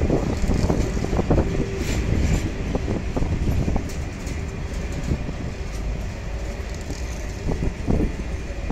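Train passing close by: a heavy rumble with irregular clattering knocks from the wheels on the track, gradually fading.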